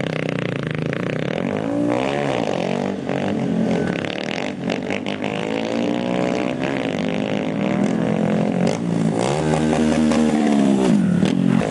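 Small pit bike engines revving up and down, their pitch rising and falling again and again as the throttle is worked, with a longer climbing rev about nine seconds in.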